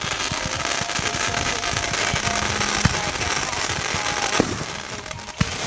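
Consumer fireworks going off in a dense barrage of crackling pops and bangs, easing off about four and a half seconds in, with a sharp single bang near the end. Music plays faintly underneath.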